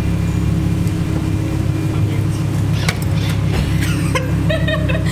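A car engine idling steadily, with a few sharp clicks about three seconds in.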